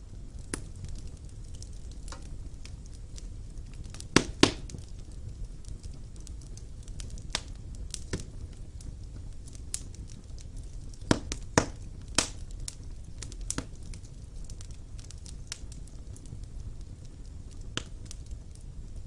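Wood fire burning in a fireplace: a steady low rumble of flames with scattered sharp crackles and pops, the loudest a pair about four seconds in and a cluster of three around eleven to twelve seconds.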